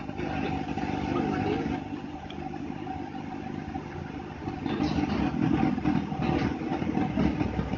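Vehicle engine and road traffic noise as picked up by a dash cam while driving, a steady hum that grows louder and busier for a couple of seconds past the middle.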